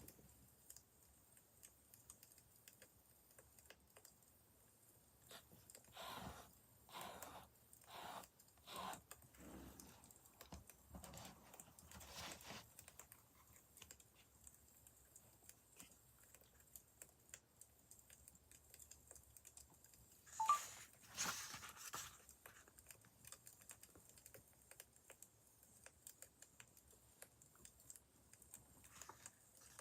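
Faint wood fire crackling, with scattered small crackles and one louder pop about twenty seconds in.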